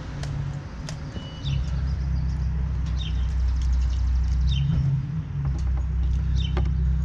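Steady low rumble of a vehicle engine running, growing louder about a second and a half in, with a short high chirp about every second and a half and a couple of sharp clicks near the start.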